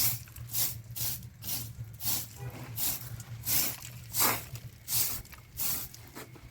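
A regular series of short, rasping scraping strokes, about one every two-thirds of a second, over a steady low hum.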